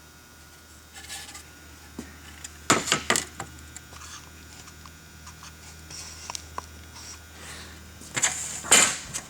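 Hand tools and small metal parts clinking and scraping against a chainsaw during disassembly, with a cluster of knocks about three seconds in and another near the end.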